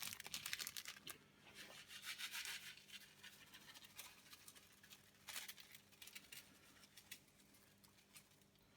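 Faint, scattered ticks and light rustling of hundreds and thousands sprinkles being shaken from their container onto a trifle.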